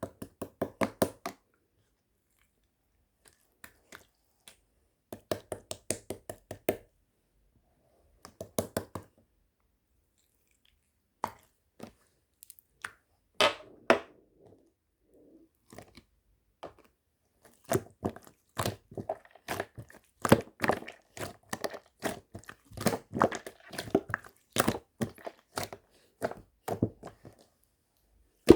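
Close-up crunchy clicking and crackling from something being handled or pressed. It comes in short runs with pauses in the first half and turns almost continuous in the second half.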